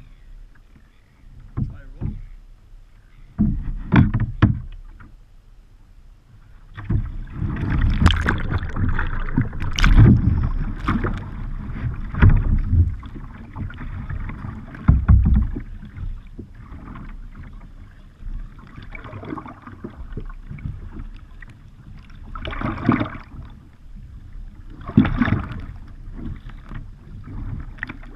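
Kayak and paddle splashing in water as a kayaker capsizes and rolls back up. It goes as a few sharp splashes, then several seconds of heavy churning splashing, then two more bursts of splashing near the end.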